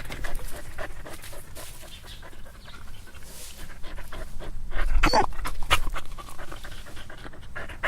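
A dog panting in quick short breaths, with a louder burst about five seconds in.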